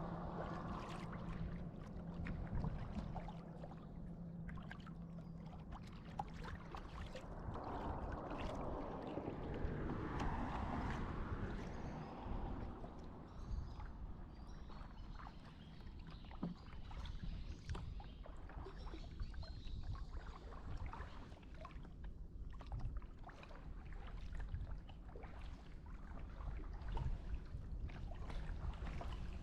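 Water splashing and lapping around a kayak as it is paddled, with many small scattered knocks and clicks. A low steady hum runs through the first several seconds.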